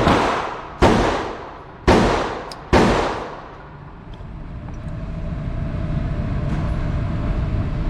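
Gunshots fired about once a second, four in a row, each with a long echoing decay. After the last shot a steady background hum rises and holds.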